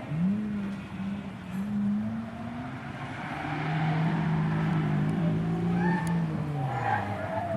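Nissan Skyline R34 GT-R V-Spec's twin-turbo RB26DETT straight-six driven hard on track: the engine note climbs sharply just after the start, holds, drops to a lower pitch about halfway through, then falls further near the end as the revs change. The engine is running with a misfire.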